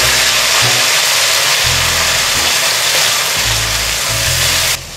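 Garlic-ginger paste and sliced onions sizzling in hot oil in a karahi, with background music carrying a low bass line underneath. The sizzling cuts off suddenly near the end.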